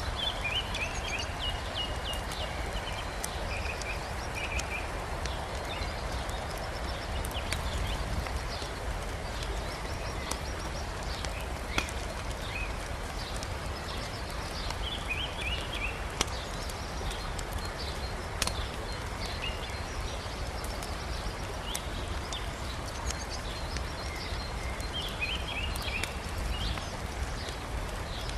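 Wood campfire crackling, with a few sharp pops of burning logs, over the steady rush of a river.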